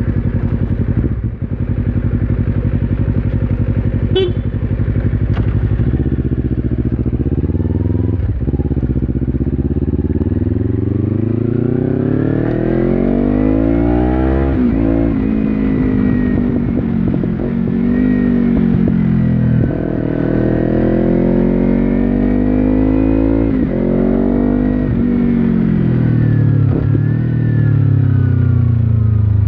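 2015 Kawasaki Ninja 300's parallel-twin engine through an Akrapovic slip-on exhaust. It idles steadily for the first several seconds, then the bike pulls away and accelerates through the gears, with the revs rising and dropping suddenly at each of several shifts.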